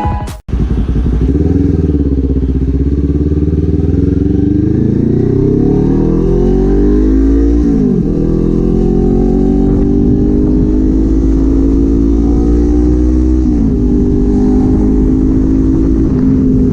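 Kawasaki Z400 parallel-twin engine and exhaust under acceleration: the revs climb steadily, drop sharply with an upshift about halfway through, climb again and drop with a second upshift near the end, then hold fairly steady.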